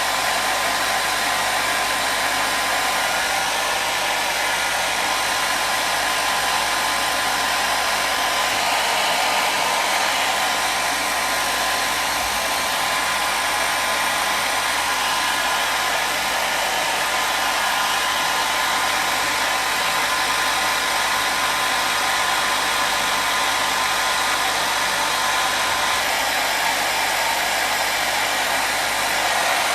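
Hair dryer blowing steadily, a constant rushing whoosh with a faint steady whine from its motor.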